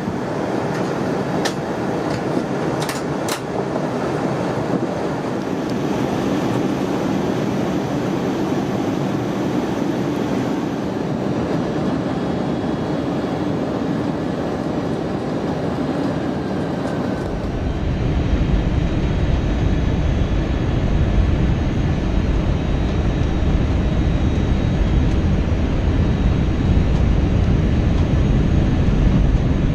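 Airbus A321 cabin noise: a steady rush of engines and air, with a few sharp clicks a couple of seconds in. About seventeen seconds in a deep rumble sets in and grows louder.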